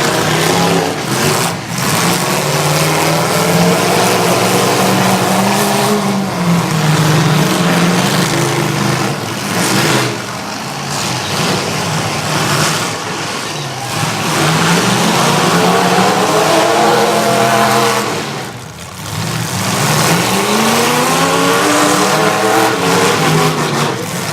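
Demolition derby trucks' engines revving hard, the pitch rising and falling again and again with the throttle.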